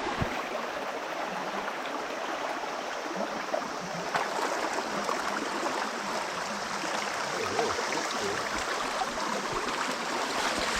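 Steady rush of flowing water, like a stream or river current running past.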